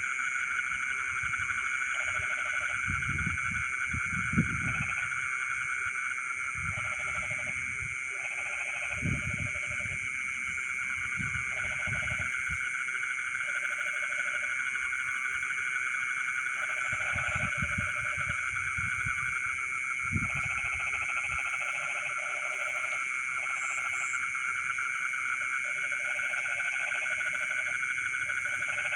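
Night chorus of frogs and insects in a flooded rice field: a steady, unbroken high trilling, with shorter frog calls repeating over it and a few low calls now and then.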